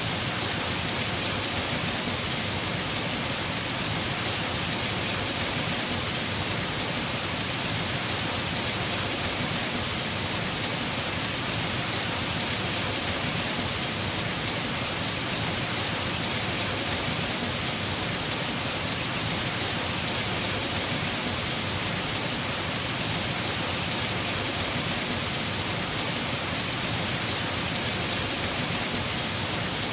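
Heavy rain falling steadily on a house roof, an even hiss of many drops with no change in strength.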